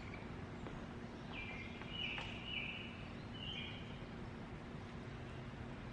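Steady outdoor background noise with a run of short, high, level-pitched animal calls about one and a half to four seconds in.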